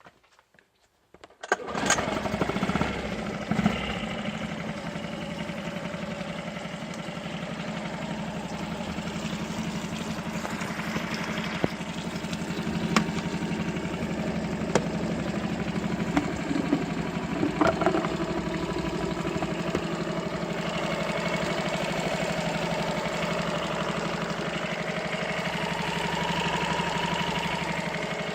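Yamaha 4 hp four-stroke outboard engine starting about a second and a half in, then running steadily.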